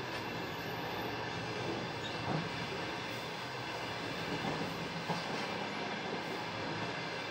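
Passenger train running along the track: a steady rumble of wheels on rails, with a couple of brief knocks as the wheels pass rail joints.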